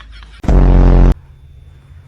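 A loud, distorted, low buzzing sound effect, lasting under a second, that starts and cuts off abruptly about half a second in.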